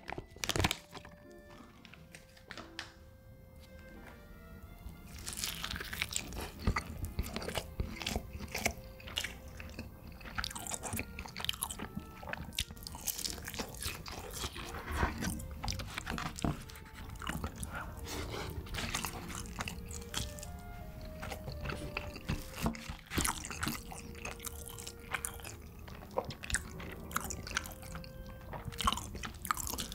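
A person biting and chewing crunchy food, many crisp crunches, over soft background music. The first few seconds hold mostly the music, and the crunching starts about five seconds in.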